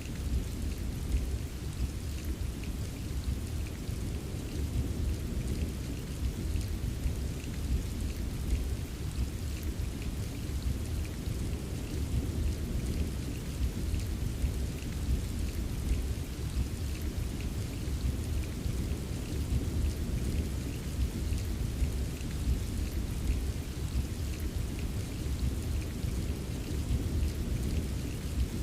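Steady rain pattering over a continuous low rumble of gentle, rolling thunder, with no sharp thunderclap.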